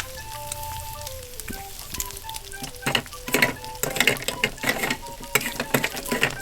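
Toy stove's electronic frying sound effect: a recorded sizzle with a simple beeping tune over it. The crackling grows denser about three seconds in.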